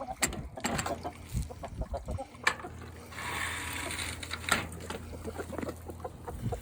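Domestic chickens clucking in short calls, with a few sharp knocks and a brief stretch of hissing noise about halfway through.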